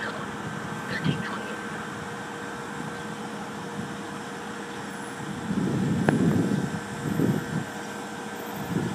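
Traffic noise on a city street, swelling for a couple of seconds about halfway through, with a sharp click near the middle.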